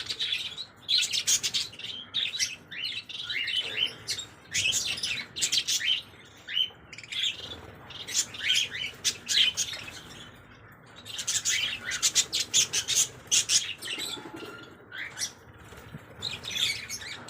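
Small birds chirping in rapid high twittering bursts, several at once, with short pauses between the bursts.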